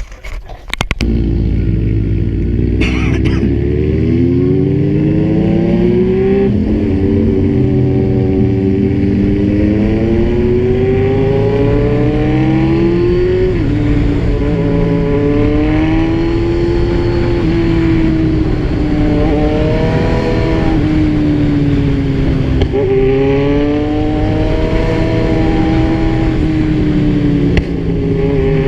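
Kawasaki Z1000's inline-four engine under way while ridden. Its note climbs through the revs and drops sharply at gear changes about six, thirteen and twenty-two seconds in. A few knocks come just before the engine sound fills in, about a second in.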